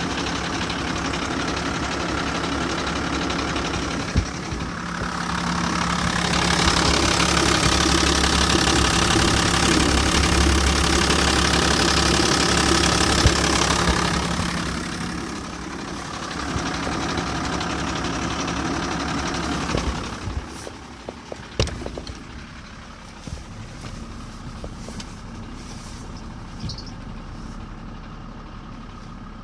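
VW T4's 2.5 TDI five-cylinder diesel running, with extraneous noise from the gearbox area. It grows louder from about six seconds in to about fourteen, then settles back. About twenty seconds in it drops to a quieter running sound with a few sharp clicks and knocks.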